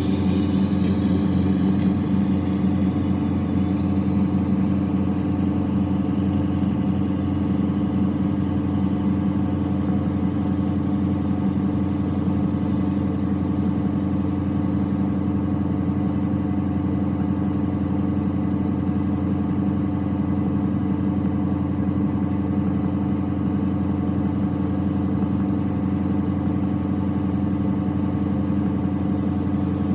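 A diesel engine of hay-hauling farm equipment running steadily at a constant speed. A faint rising whine sits over it in the first couple of seconds.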